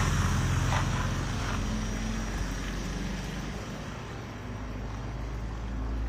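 Vehicle noise: a low engine rumble with road hiss that fades over the first four seconds, then grows a little louder again near the end.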